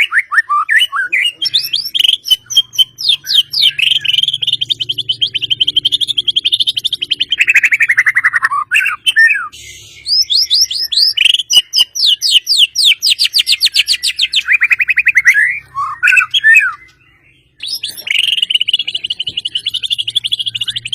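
White-rumped shama (murai batu) singing long, loud runs of rapid-fire repeated notes, fast trills that sweep up and down in pitch, with brief pauses about nine and seventeen seconds in.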